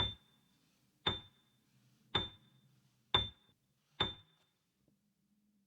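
A short, high, bell-like ping sounding five times, about one a second, each with a brief ring that dies away quickly; the last comes about four seconds in.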